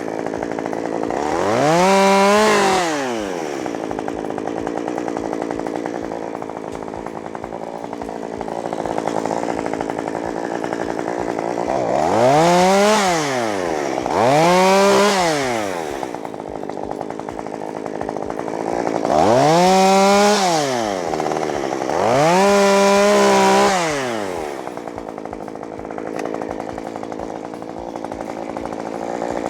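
Two-stroke chainsaw revved up to full speed five times and dropped back to a lower idle between; the last run holds at full speed for about a second and a half before falling away.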